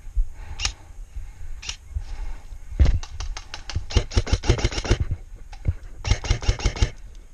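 Airsoft gun firing: two single shots, then a rapid burst of roughly ten shots a second lasting about two seconds, and a shorter burst about a second later.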